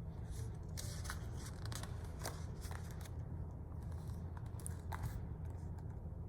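Paper rustling and small clicks as the pages of a picture book are handled and turned, over a steady low room hum.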